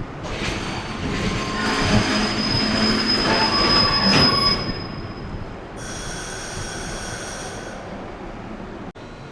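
A JR West Biwako Line train passes at speed, its wheels and cars rushing by with a steady high squeal, louder for about four seconds and then fading. About six seconds in, a high steady tone sounds for about two seconds and cuts off sharply.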